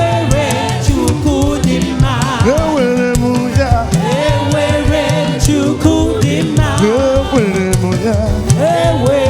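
Live gospel praise music from a church band and choir: drums keeping a steady beat under a wavering, vibrato-laden melody line.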